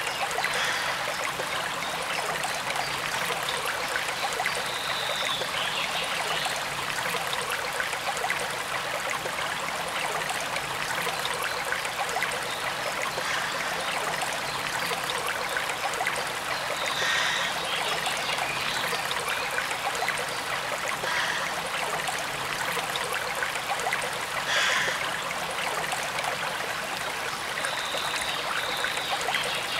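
Forest stream running and trickling steadily. A few short high chirps rise above it now and then.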